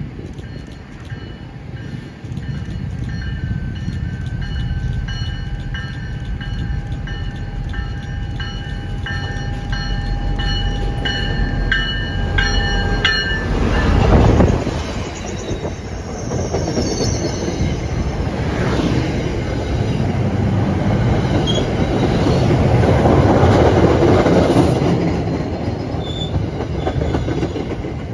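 MBTA F40PH-2C diesel locomotive approaching with a steady low rumble, while high ringing tones sound, and passing close about halfway through, where it is loudest. The passenger coaches then roll past with wheel noise and clickety-clack over the rails.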